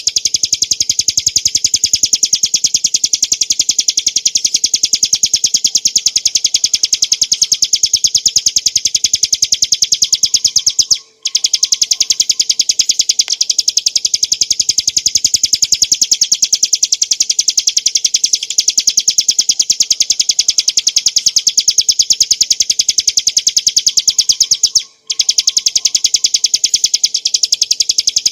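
Ciblek gunung, a small prinia, singing a continuous, very fast trill of sharp repeated high notes. It breaks off briefly twice, then starts again.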